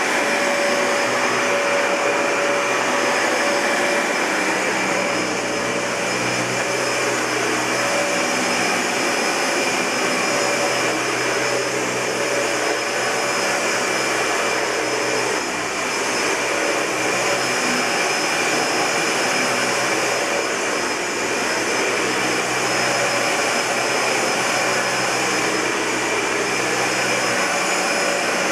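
Dyson Ball Multi-Floor (UP13) bagless upright vacuum cleaner running steadily: a constant rushing whir with a high-pitched motor whine.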